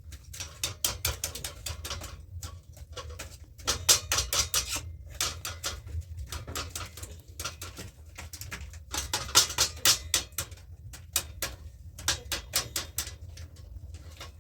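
Bursts of quick, sharp taps and clatters, in rapid clusters with short gaps between, over a steady low hum.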